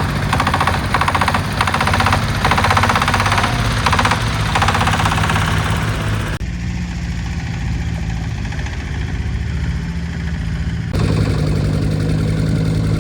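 Mini excavator's diesel engine running steadily, with repeated bursts of louder, higher-pitched working noise over the first six seconds. The sound changes abruptly about six and a half seconds in and again about eleven seconds in.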